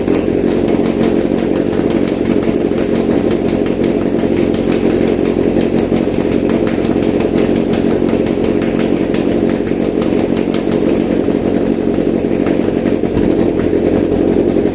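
Toyota 2ZR-FE 1.8-litre four-cylinder petrol engine running steadily on a test stand, with no revving.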